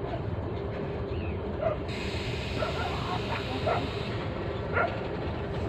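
Passenger train running with a steady low rumble, with a few short, sharp, higher-pitched sounds over it, the loudest about two seconds in and near the end.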